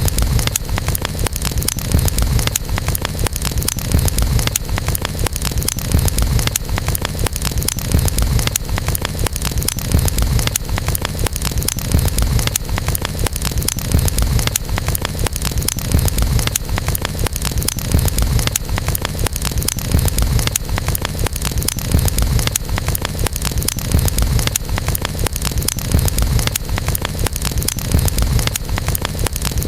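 Campfire burning: a steady low rumble of flames with dense, constant small crackles and pops.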